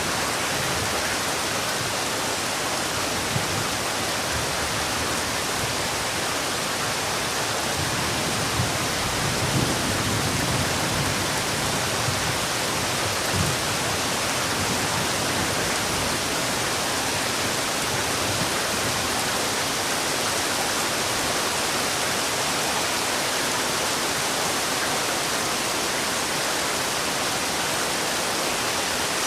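Heavy rain falling steadily, an even hiss with a few soft low thuds in the first half.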